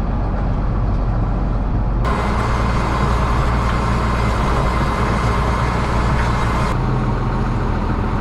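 John Deere 7810 tractor's diesel engine running steadily. From about two seconds in to near seven seconds the sound is louder and brighter.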